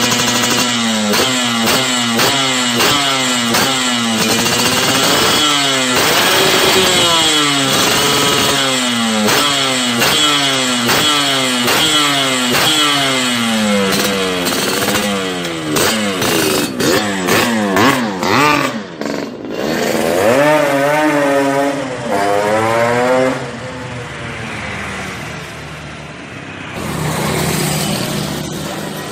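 Yamaha RX-King two-stroke single revved through an aftermarket exhaust, with repeated quick throttle blips about once a second, then a few longer revs, settling lower near the end before one more rev.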